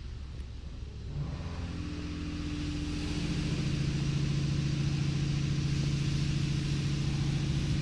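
Washworld Razor Edge car wash machinery starting up: a motor hum comes in about a second in and builds, with a steady spray hiss over it, then holds steady.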